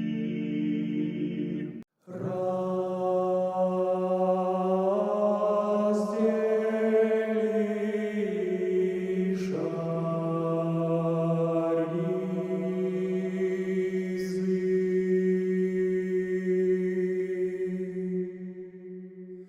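Slow Orthodox church chant: long drawn-out sung notes that step to a new pitch every few seconds, with a brief break about two seconds in.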